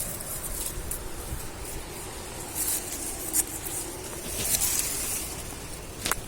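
Clothing rustling and rubbing against a phone microphone tucked away in a pocket, with several short scrapes and scuffs, as a person scrambles up a steep slope.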